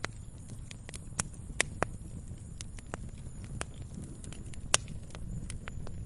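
Log fire burning: irregular sharp crackles and pops over a low steady rumble of the flames, the loudest pop about three-quarters of the way through.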